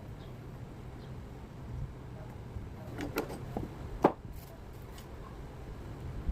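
A few light clicks and taps of small parts being handled while a robot car kit is assembled. The sharpest tap comes about four seconds in, over a low steady hum.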